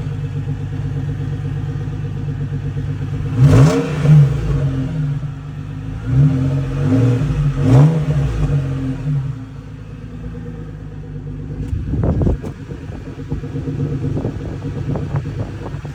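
2001 Isuzu VehiCROSS V6 engine, cold and only just started, idling and then blipped several times in quick succession a few seconds in, each rev rising and falling back, before settling to a steady idle again.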